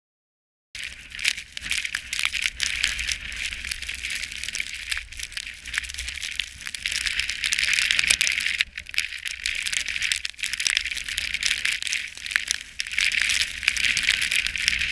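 Skiing on snow: edges sliding and scraping over the snow in a dense, fluctuating hiss full of small crackles and clicks, over a low rumble. It starts just under a second in, after a moment of silence.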